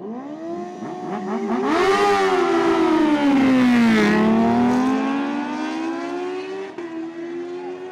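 A superbike engine at full throttle in a drag run, a high-pitched scream that rises from the start and grows loud. Its pitch sweeps down to a low point about four seconds in, when it is loudest, then climbs steadily again as the bike pulls away.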